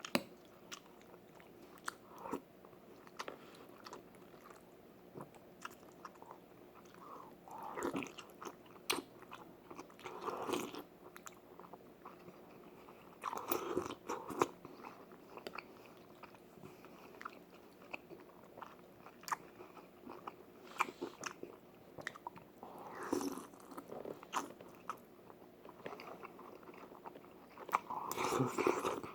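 A person eating beef seaweed soup close to the microphone: chewing and mouth sounds, with scattered sharp clicks and several louder bursts of eating noise.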